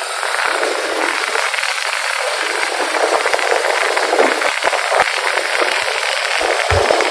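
Steady rushing noise with crackle and rattle while riding a motorcycle, the wind and road noise a bike-mounted camera picks up at speed; no clear engine note stands out.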